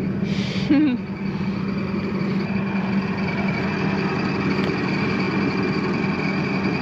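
Tractor engine running steadily at a constant speed, with a short hiss about half a second in.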